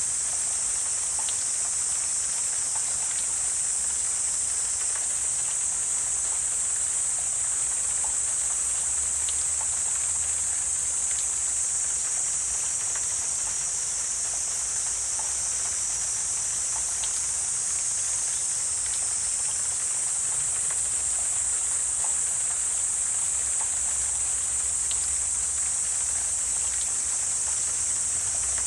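Steady, high-pitched insect chorus, with faint short chirps scattered through it.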